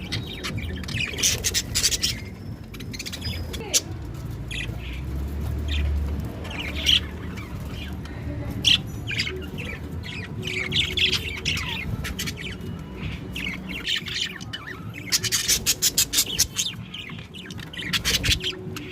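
Budgerigar chatter: quick, scratchy chirps and squawks in irregular bursts, with a fast run of them near the end.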